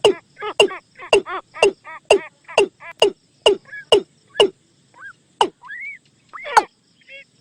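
Watercock calling as a decoy lure: a fast run of short, hollow, downward-sweeping notes, about two a second. The run breaks up about two-thirds of the way through into a few scattered rising notes and one last loud note.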